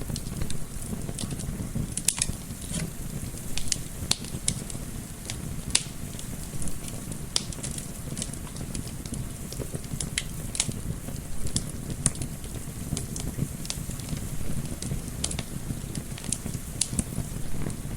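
Wood fire crackling, with many irregular sharp pops and snaps over a steady low rumble, mixed with a gentle wind.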